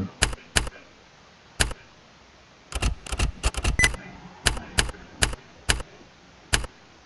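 Typing on a computer keyboard: sharp separate keystrokes, a few spread out and a quick run of about ten near the middle.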